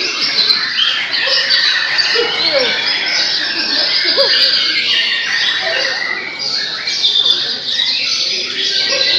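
Several caged white-rumped shamas (murai batu) singing at once in competition, a dense, unbroken tangle of overlapping phrases.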